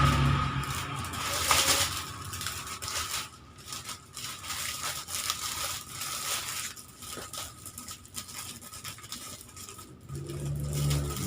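Plastic snack wrappers and packaging crinkling and rustling as they are handled and packed, with scattered small clicks and taps.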